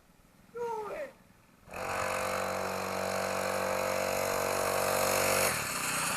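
The small 40cc petrol engine of a KTX mini dirt bike. After a short falling sound about half a second in, the engine runs at a steady speed for about four seconds, then drops off near the end. It has just stalled, and the rider suspects it is nearly out of fuel.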